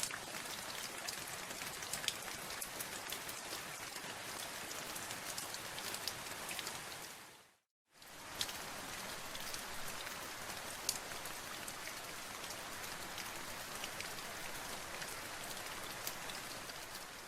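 Steady rain, with many individual drops ticking on a surface. It fades out to a moment of silence about seven seconds in, comes back at once, and begins fading again near the end.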